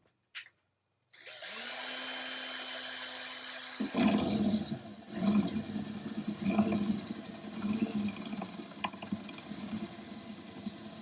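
A couple of clicks, then a cordless drill spinning freely with a steady whine; about four seconds in the bit bites into the Land Rover's aluminium body panel and the sound turns to an uneven, rough cutting noise that rises and falls as it enlarges a pilot hole.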